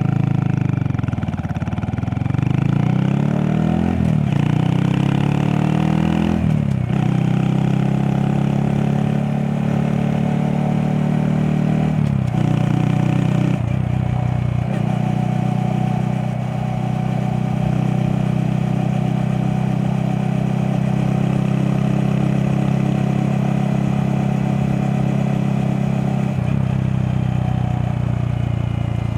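Honda Monkey 125's single-cylinder four-stroke engine pulling a sidecar rig. The engine slows, then accelerates up through the gears with shifts about 4, 7 and 12 seconds in. It then runs at a steady cruising speed and eases off near the end.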